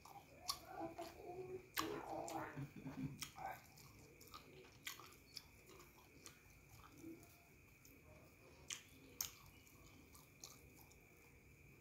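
Close-miked chewing and lip smacks of a person eating curry and rice by hand: a busy run of mouth clicks in the first few seconds, then scattered single smacks.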